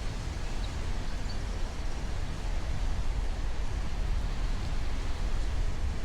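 Steady wind noise buffeting the microphone, with a heavy low rumble and a rushing hiss and no distinct events.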